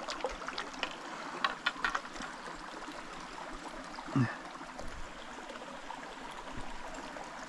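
Small mountain creek running steadily, with a few light clicks in the first two seconds and a short pitched sound about four seconds in.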